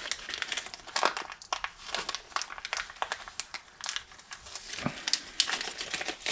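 Packaging of a caster wheel bearing kit crinkling and rustling as it is handled, in irregular crackles, with small clicks from the parts.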